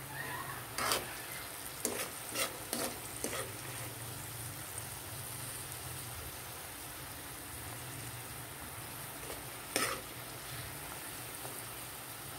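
Cubes of sweet potato sizzling as they fry in hot oil in a pan, with a spatula clicking and scraping against the pan about five times in the first few seconds and once more later on.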